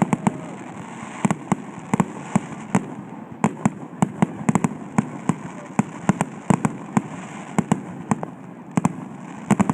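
Fireworks bursting in a rapid, irregular barrage: many sharp bangs a second, some louder than others, over a steady background hiss.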